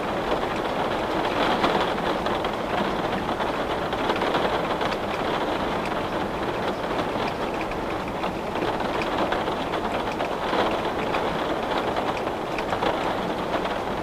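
Steady rain falling on a window: an even, unbroken hiss with faint scattered ticks of single drops.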